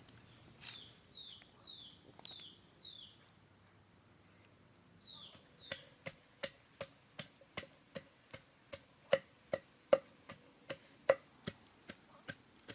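Steady chopping with a blade, sharp strikes about three a second starting about six seconds in, some much louder than others. Before it comes a run of high, quick falling chirps, five in a row and then two more.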